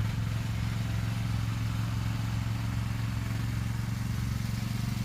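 Engine of the vehicle moving the shed, running with a steady low hum.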